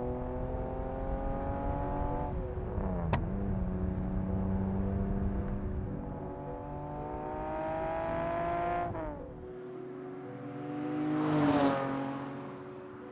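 The 1971 Datsun 240Z's 3-litre L-series straight-six, breathing through six open throttle-body trumpets, accelerating hard. The revs climb twice and drop at each upshift, about two and a half seconds in and again near nine seconds. About eleven seconds in the car passes close by in a loud rush, then fades away.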